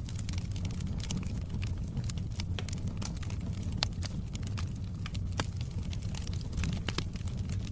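Wood fire burning in a fireplace: a steady low rumble of flames with frequent irregular crackles and small pops of burning wood, a few sharper pops standing out.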